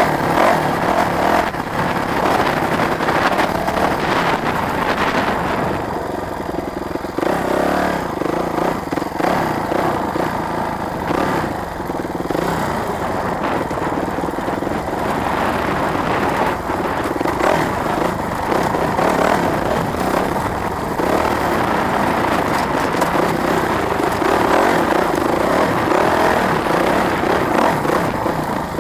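Dirt bike engine running steadily as the bike is ridden along an off-road trail.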